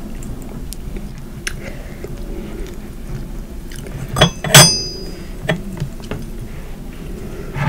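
Close-miked eating sounds with scattered small clicks. About four seconds in there are two loud knocks, and the second is a clink of tableware that rings briefly.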